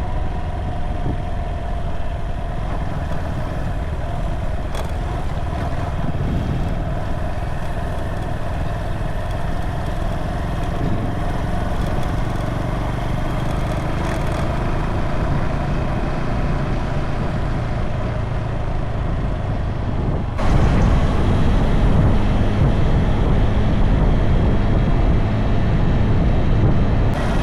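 Wuyang-Honda 190 motorcycle running at speed, its engine under heavy road and wind noise. The noise steps up abruptly and gets louder about twenty seconds in.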